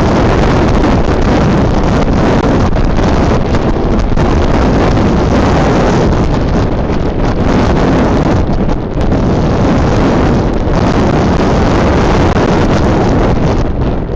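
Strong wind buffeting an outdoor nest webcam's microphone: loud, continuous wind noise, heaviest in the low rumble, with brief lulls about nine seconds in and near the end.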